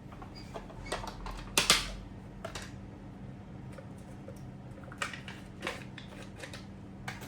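Light clicks and taps of kitchen utensils and containers being handled, with a louder cluster of knocks about a second and a half in, over a steady low hum.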